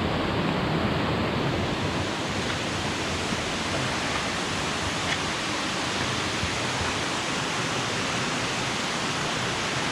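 Steady rush of flowing, falling water.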